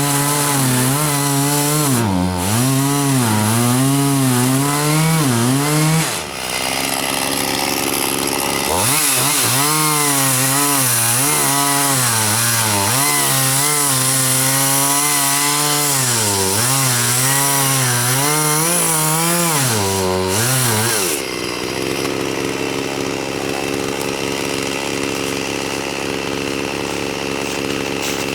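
Chainsaw running under load, its engine speed wavering up and down as it cuts. It eases off about six seconds in, cuts again from about nine seconds, then drops back to a steady idle about twenty-one seconds in.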